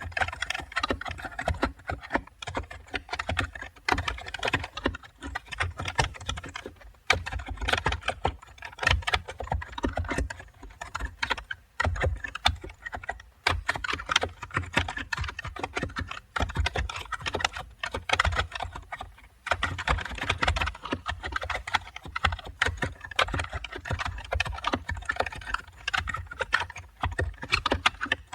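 Computer keyboard typing: fast, continuous runs of key clicks with a low thock under each keystroke, broken by short pauses a few times.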